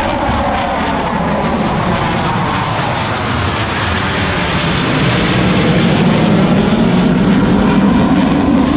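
Jet engine noise from display fighter jets making a low pass: a loud, steady rushing sound with a falling pitch near the start, swelling louder about halfway through.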